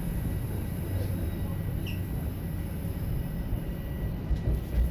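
Toronto subway train running between stations, heard from inside the car: a steady low rumble of wheels on rails, with a brief faint squeal about two seconds in and a few heavier low thumps near the end.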